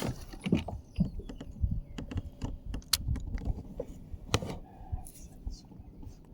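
Irregular clicks, knocks and light rattles of small hard objects being handled, with a few sharper knocks about three and four and a half seconds in.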